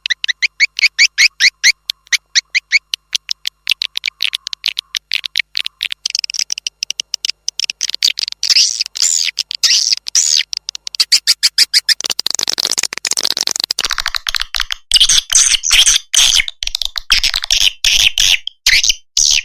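Recorded swiftlet lure call played back: rapid, repeated high chirps and twitters of swiftlets, several a second, with a short stretch of hiss about two-thirds of the way through.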